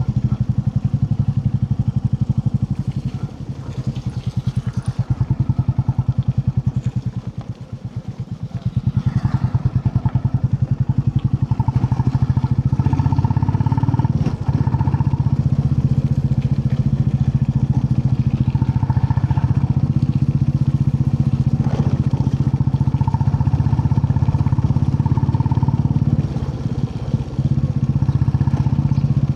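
Royal Enfield Classic 350's single-cylinder engine running under way with a steady, even thump. It eases off for a few seconds about three to eight seconds in, then picks up again.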